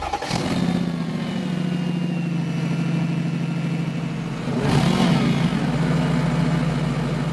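A car engine running at a steady pitch after rising in the first second, swelling louder with a brief wavering in pitch a little past the halfway point.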